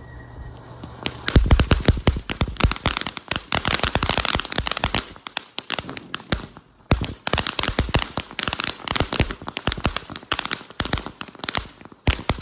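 Firecrackers going off in a rapid, dense string of sharp cracks. They start about a second in, pause briefly around the middle, then carry on.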